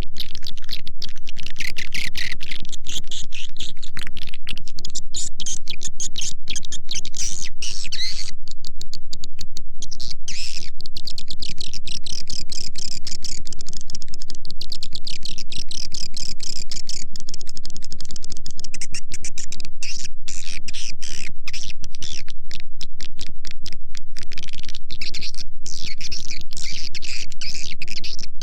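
Swiftlet lure call recording: dense twittering swiftlet chirps over a rapid, unbroken run of clicks, at a steady loudness throughout. It is a call sound played to draw a swiftlet colony into a nesting house.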